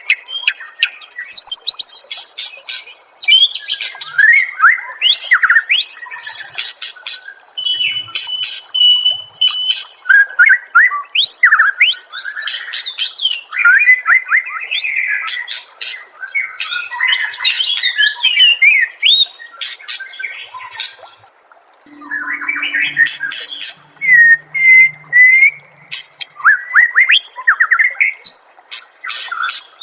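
White-rumped shama (murai batu) singing a long run of rapidly changing phrases: loud whistles, sharp chips and rattling notes, with one held whistle about eight seconds in and a short break a little past the middle.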